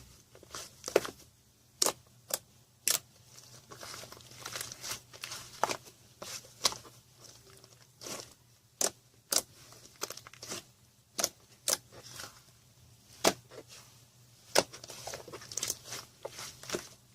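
Purple slime being pressed and played with by hand: irregular sharp clicks and pops, with soft crackly squishing between them.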